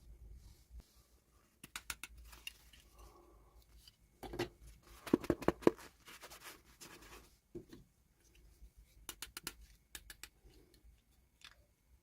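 Hands unboxing miniature toy dolls: scattered sharp clicks and crinkles from the packaging, with a quick run of louder clicks about five seconds in.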